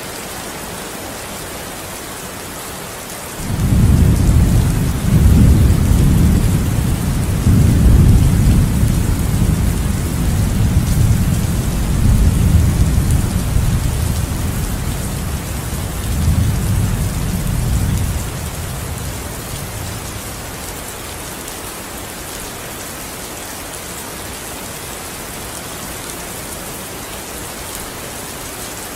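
Steady rain falling, with a long roll of thunder that breaks in suddenly a few seconds in. The thunder swells several times in deep rumbles, then dies away after about fifteen seconds, leaving the rain alone.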